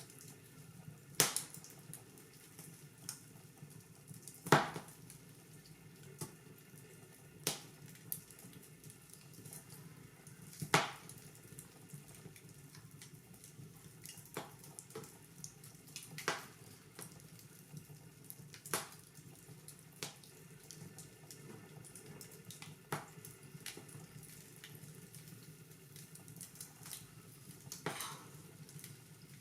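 Wood fire in a fireplace crackling: a steady low hiss of flames with sharp, irregular pops every second or few, a few of them louder snaps.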